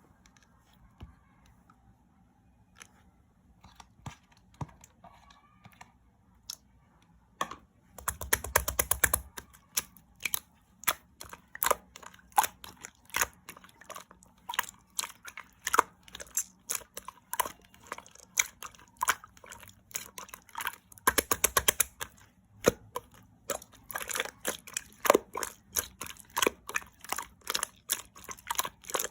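Clear slime being squished and poked by hand, making a run of sharp clicks and pops several times a second. Two longer crackly squishes come about eight seconds in and about twenty-one seconds in. The first several seconds hold only a few faint clicks.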